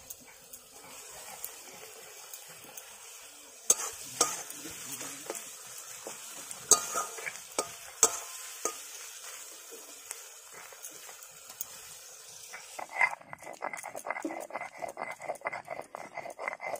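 Chopped tomato and onion sizzling in hot mustard oil in a metal kadai, a steel spatula stirring and scraping with a few sharp clinks against the pan. About thirteen seconds in it changes to a stone grinding slab (sil-nora): the stone rubbed back and forth over cumin and dry red chillies in quick rhythmic strokes, grinding them to a wet paste.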